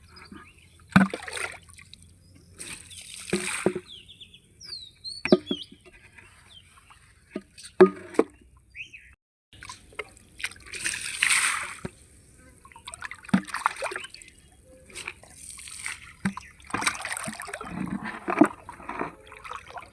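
Water splashing and trickling in irregular bursts a second or two apart, as quicklime is applied to foul, blackened pond water.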